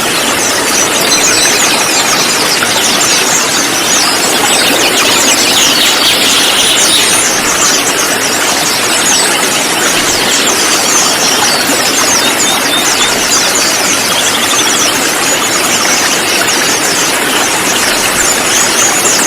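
A flock of konin sunbirds (kolibri ninja) chattering together, with many rapid high chirps and short trills overlapping over a steady hiss.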